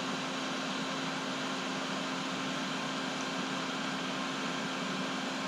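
Steady background hum and hiss, with one low tone held throughout, like a fan or other running machine in a small room.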